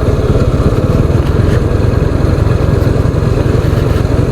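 Motorcycle engine running steadily while the bike is ridden along the road, heard loud and close from the rider's own camera.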